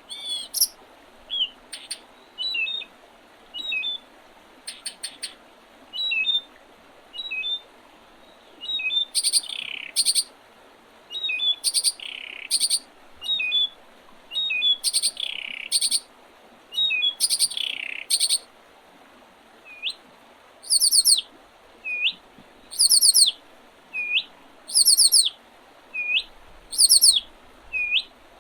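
Wild songbirds calling and singing: short high chirps about once a second, and brief high song phrases repeated every second or two, coming more regularly in the second half.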